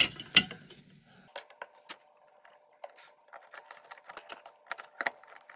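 Screwdriver driving screws into a computer power supply's metal case: two sharp metallic clicks at the start, then a run of small ticks and scrapes of metal on metal.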